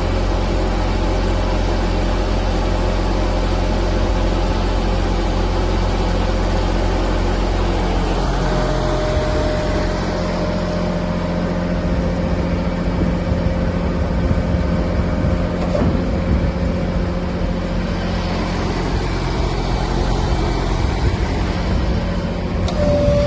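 Compact tractor engine running steadily. A steady higher whine joins in about eight seconds in.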